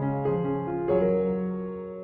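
Background piano music: a gentle melody of single notes over held low notes.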